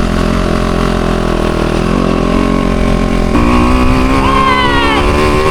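Motocross bike engine running hard on track, its pitch changing with the throttle: a sudden jump in revs a little over three seconds in, then rising revs.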